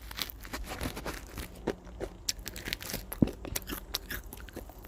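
A crunchy Nature Valley granola bar being bitten and chewed, with the crackle of its plastic wrapper: irregular small crunches and clicks.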